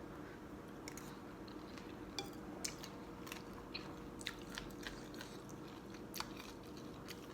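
Close-up chewing of a mouthful of Thai boat noodles, with small crunches and many short wet mouth clicks.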